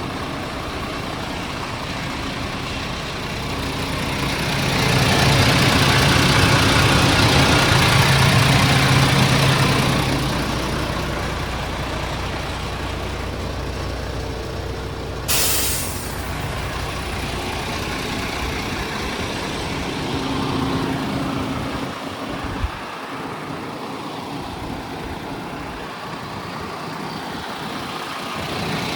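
MAN TGS 41.480 truck's diesel engine running steadily. It grows louder for about five seconds early on, then drops back. A short sharp hiss of air comes about halfway through.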